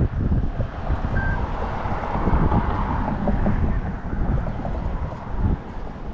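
Wind buffeting the microphone, a gusty low rumble.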